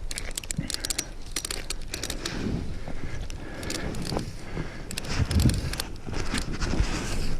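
Footsteps climbing a snowy rock trail in metal traction cleats: an irregular run of sharp crunches, scrapes and metallic clinks, with a few duller thuds.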